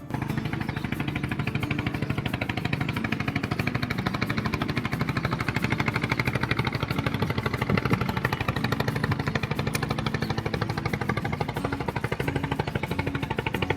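An engine running steadily with a fast, even pulsing beat, starting suddenly at the beginning.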